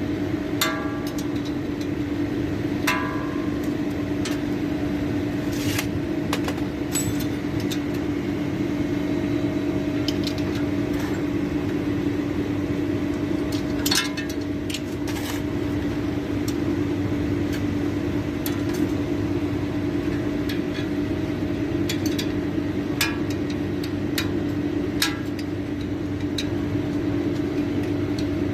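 A steady mechanical hum with a constant pitch, with a few light clicks and short metallic clinks over it.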